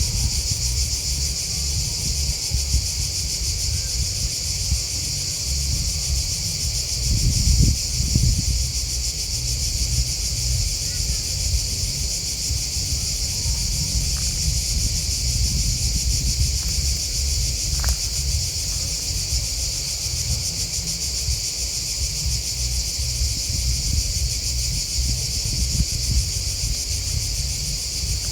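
A dense, steady, high-pitched chorus of chirring insects (crickets and grasshoppers) with no breaks. Under it runs a low rumble that swells briefly about seven seconds in.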